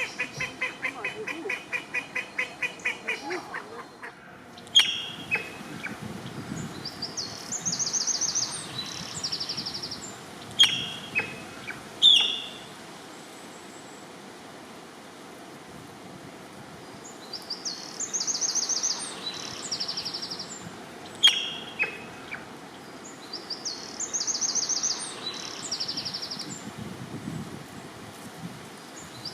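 Waterfowl and small songbirds calling. A rapid run of quacking calls, about five a second, dies away about four seconds in. After that come a few loud, sharp single calls and a high, fast trilled song repeated several times.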